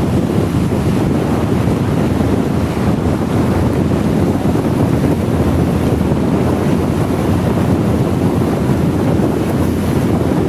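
Steady, loud rushing of wind on the microphone of a moving motorcycle, mixed with very heavy rain.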